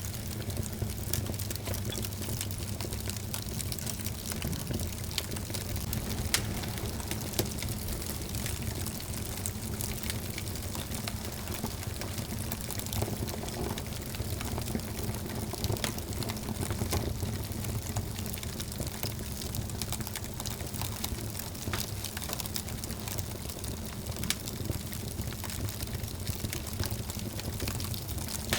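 Wood fire burning in a fireplace: frequent sharp crackles and pops over a steady hiss and low rumble.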